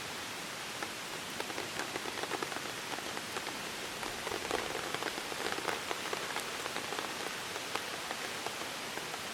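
Rain falling, a steady hiss with many separate drops ticking irregularly, the drops thickest a few seconds in and thinning toward the end.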